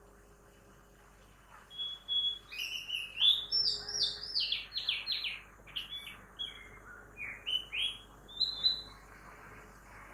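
Birdsong: a quick run of short, sweeping chirps and whistles that starts about two seconds in and thins out near the end, over a faint steady hum of morning city traffic.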